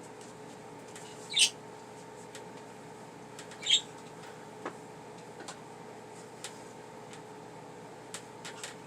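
Pet budgerigars giving two short, loud chirps, one about a second and a half in and another near four seconds, with a few faint clicks between. A faint steady hum lies underneath.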